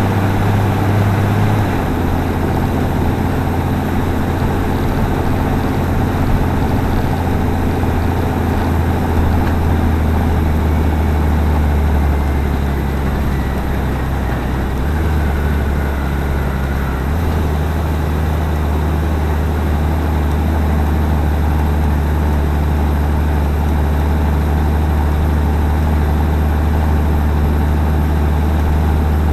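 Claas Axion 820 tractor's six-cylinder diesel engine running steadily, its low note shifting down a step a few times as the engine speed changes.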